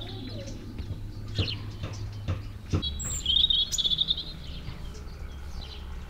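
A small bird chirping in a quick run of notes about three seconds in, over a few scattered sharp knocks and a steady low hum.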